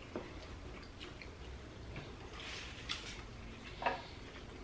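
Faint eating sounds: a few short mouth clicks and smacks from chewing tacos, with a brief rustle or crunch about two and a half seconds in.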